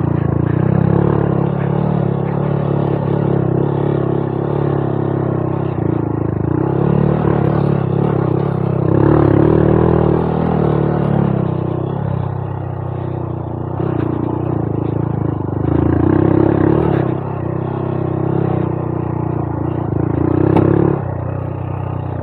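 Honda Monkey 125's single-cylinder four-stroke engine running on a rough trail under changing throttle, swelling louder three times, about nine seconds in, around sixteen seconds and near the end. A few short knocks from the bike going over rocks.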